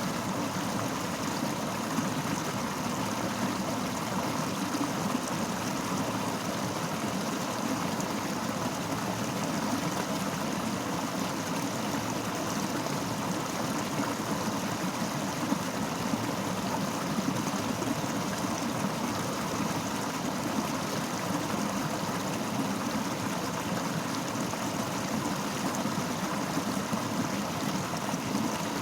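Fast-flowing river rushing steadily over rocks, a continuous even roar of water.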